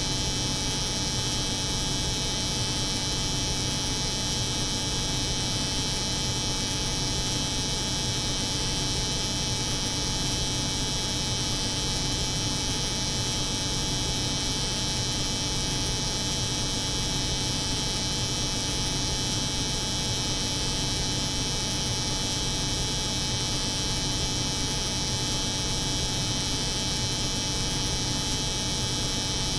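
Steady, unchanging layered drone: the hum of a cold room's refrigeration unit mixed with the buzz of an electric hair clipper running continuously.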